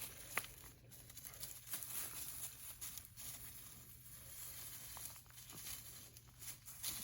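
Faint footsteps and light rustling while walking, with one sharp click about half a second in.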